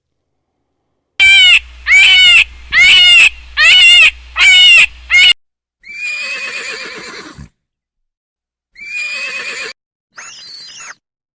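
Horse neighing: a quick run of about five loud whinnying calls, then two longer neighs and a short high call near the end.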